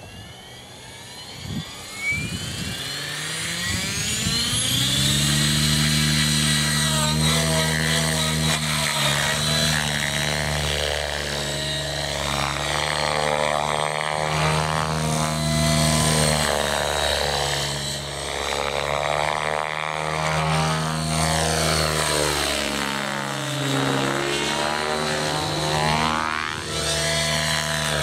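Align T-REX 700 DFC electric RC helicopter: its motor and rotor head spool up in a rising whine over the first four or five seconds, then run at flying speed with a steady buzzing hum whose pitch dips and rises several times as it flies.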